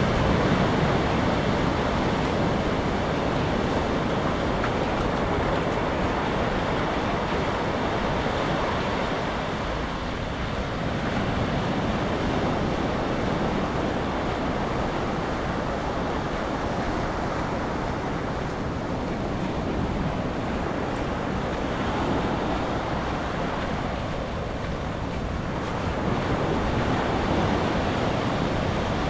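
Sea waves washing onto the beach in the rain: a steady wash of surf that swells and eases every several seconds, with wind rumbling on the microphone.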